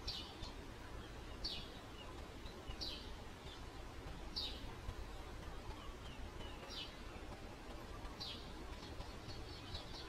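A small bird chirping: six short, high, downward chirps spaced about one and a half seconds apart, over a steady low background rumble.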